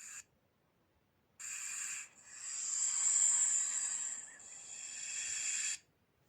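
Snake hissing: a very short hiss right at the start, a hiss of about half a second at about a second and a half in, then a long hiss of about three and a half seconds that swells and fades.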